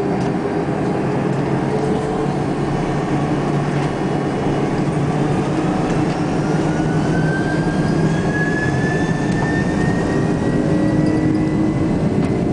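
Jet airliner engines running with a steady loud rumble, and a thin whine that rises slowly in pitch through the second half as the engines spool up for the takeoff.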